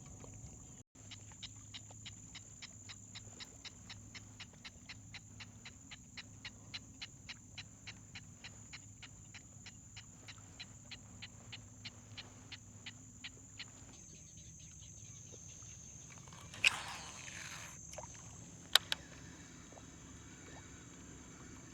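Fishing reel cranked during a lure retrieve, ticking evenly about three times a second, then a short whoosh like a cast and a single sharp click a couple of seconds later.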